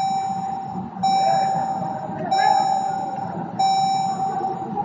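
Jeep Cherokee's dashboard warning chime with the ignition switched on: a steady electronic beep about a second long, repeating four times at even spacing.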